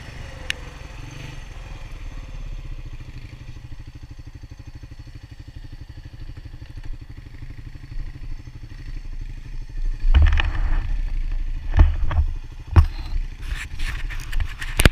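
ATV engine idling with a steady, fast low putter. From about ten seconds in, a run of loud thumps and knocks, ending in a sharp click.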